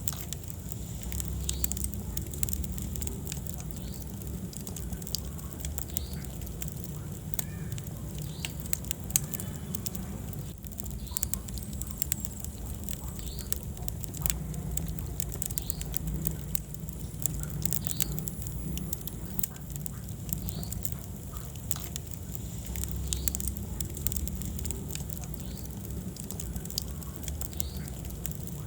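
Wood fire burning in a fireplace, crackling steadily with frequent sharp pops over a low rumble of the flames.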